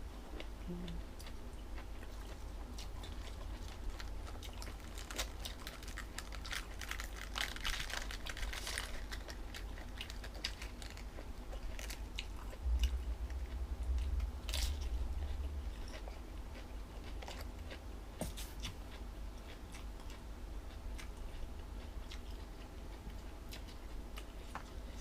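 A person chewing crunchy jellyfish and salad close to the microphone, with irregular wet crunches and clicks that come thickest about a quarter of the way in. There is a low rumbling bump around the middle.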